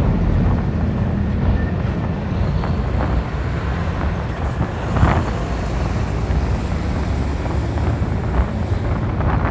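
Heavy trucks rolling off a car ferry, their diesel engines making a steady low rumble, with wind buffeting the microphone. A short knock comes about five seconds in.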